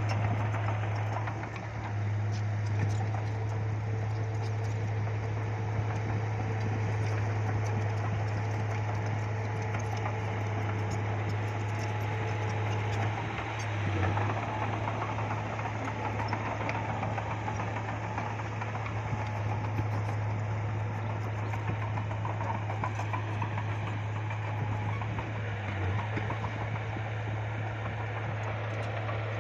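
Bulldozer's diesel engine running steadily. Its deep drone dips briefly three times: about a second and a half in, near the middle, and near the end.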